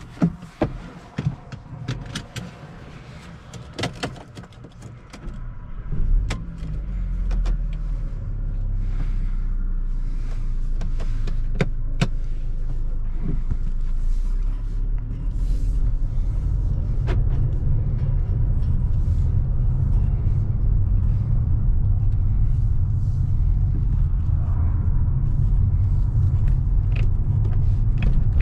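Scattered clicks and knocks inside a car cabin, then about six seconds in the turbocharged 2.0-litre four-cylinder petrol engine of a 2015 Mercedes-Benz GLA250 starts and keeps running with a steady low rumble that grows louder over the next ten seconds.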